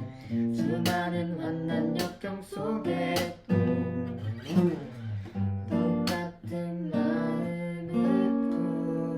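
Song accompaniment: an acoustic guitar strummed in chords, with a voice singing faintly at times; about eight seconds in a chord is held and left ringing.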